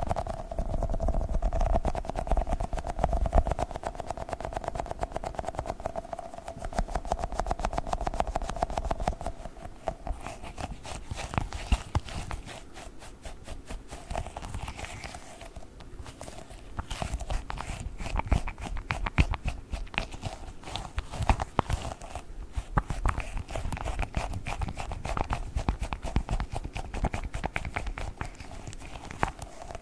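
Globbles sticky gel toys being squeezed, pressed and pulled off a surface close to the microphone: dense, rapid sticky clicks and crackles that come and go in waves.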